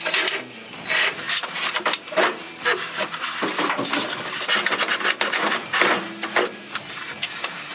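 Irregular scraping and rubbing as the old gauge cluster is worked loose and pulled out of the truck's dashboard.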